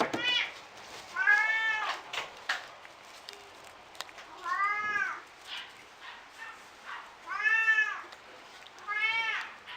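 A kitten meowing repeatedly: about four high, plaintive meows a couple of seconds apart, each rising and then falling in pitch.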